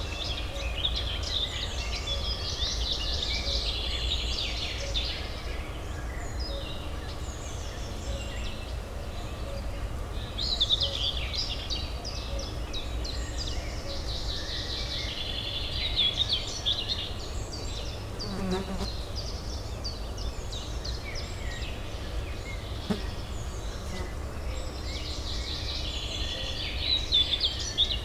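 Small birds chirping in recurring bursts of a few seconds over a steady low urban hum.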